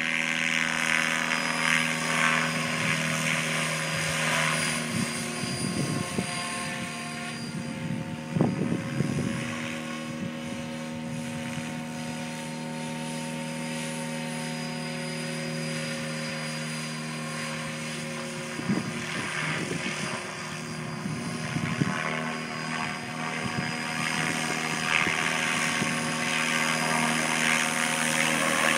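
Miniature Aircraft Whiplash 700-class electric RC helicopter on 12S flying, with a steady rotor and motor whine. It is louder near the start and end and fainter in the middle as it moves about, with a few brief louder bursts.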